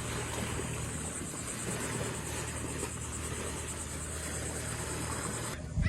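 Steady outdoor ambience: an even hiss with a low steady hum underneath, cutting off suddenly near the end.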